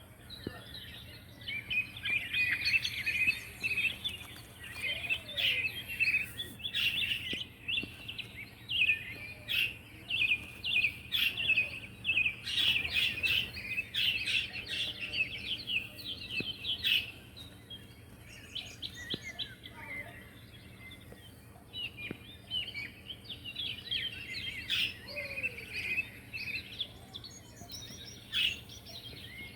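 Young pet birds chirping in rapid, high-pitched runs, with a thinner spell of fewer chirps in the middle before the chatter picks up again.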